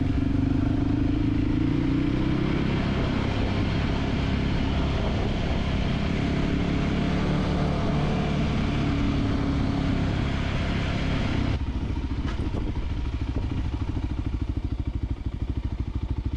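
Voge 300GY dirt bike's single-cylinder engine running while riding, with wind and road hiss. About eleven seconds in the hiss falls away and the engine settles to a slower, even beat as the bike comes to a stop.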